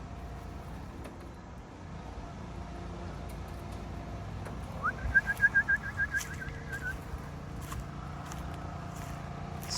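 A high trilled whistle of about ten quick notes lasting about two seconds, starting about five seconds in, among a scatter of sharp clicks.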